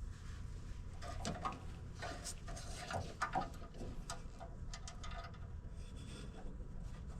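Scattered small clicks and short rustles of hands handling wires and connectors at a furnace's limit switches, over a low steady hum.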